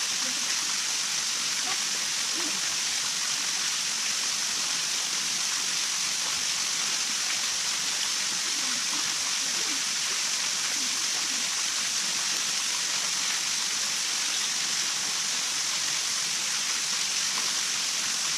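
Steady, even outdoor hiss, brightest in the high range and unchanging throughout, with faint distant voices beneath.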